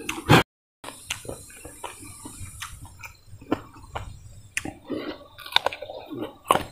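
Close-up chewing and crunching of a mouthful of crispy food, with many irregular sharp crunches.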